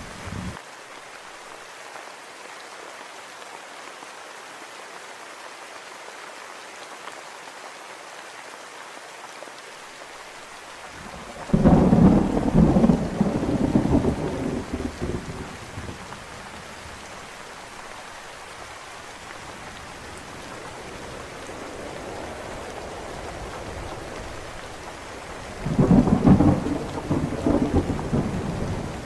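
Steady rain falling, with two loud rolls of thunder: one about a third of the way in lasting a few seconds, and another near the end.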